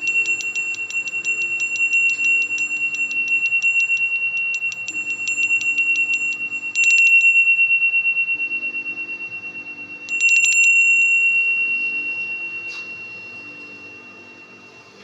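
A Balinese genta, a priest's hand bell, rung with one steady high ringing tone. Its clapper strikes rapidly and evenly, about five times a second, for the first six seconds or so. It is then struck hard twice, about seven and ten seconds in, and each time left to ring with a long, slowly fading sustain.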